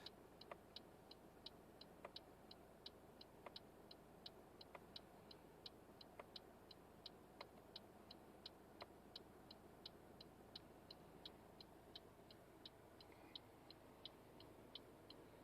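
Faint, regular ticking, about three ticks a second, with a slightly stronger tick every second or so, over near silence.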